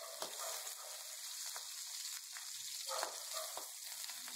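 Cut green chillies frying in a little oil in a metal pan, a faint steady sizzle. A few light clicks come as a steel spoon stirs them.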